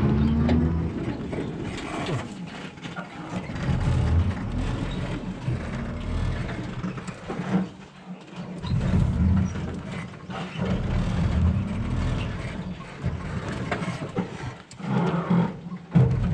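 Tuk-tuk running along a road, heard from the passenger seat: engine and road noise with uneven wind buffeting on the microphone. The level dips briefly about eight seconds in.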